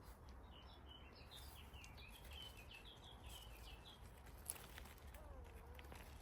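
Faint bird song: a quick run of short high chirping notes lasting about three seconds, over a low steady background rumble.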